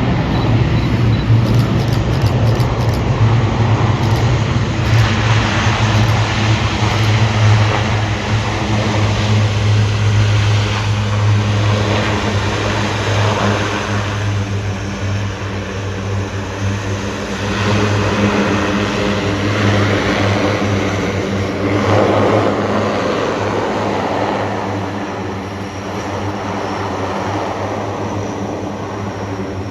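Propeller aircraft engines running, a loud, steady, low-pitched hum under a broad engine noise that swells and eases several times as the aircraft moves.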